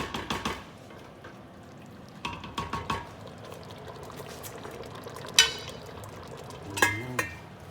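A stirring utensil clinks and scrapes against a cooking pot as curry sauce simmers, in quick ringing clusters, with one sharp clang about five seconds in and another clank near the end.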